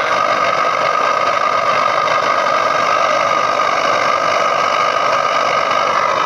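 Engine idling steadily through a homemade exhaust.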